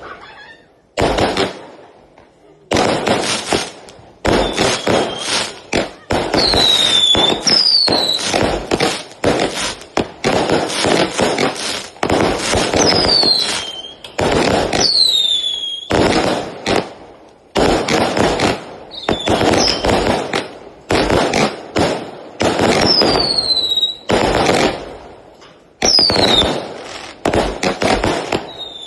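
A fireworks battery cake fires a dense string of shots, several launches and bursts a second, with high whistles gliding down in pitch through many of them. The firing thins briefly about a second in, then resumes near three seconds and keeps going.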